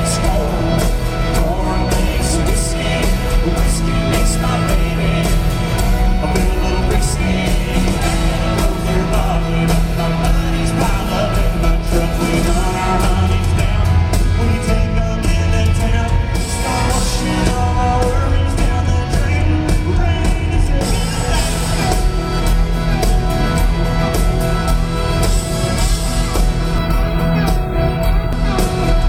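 Live country band playing loud and steady, with singing over it.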